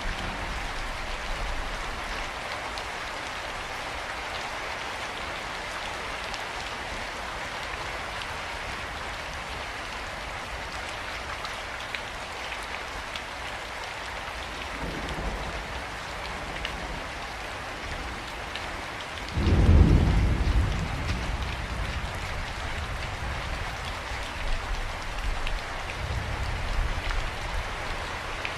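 Steady rain falling. About two-thirds of the way through a loud thunderclap breaks in and rumbles on for several seconds, with a fainter rumble of thunder near the end.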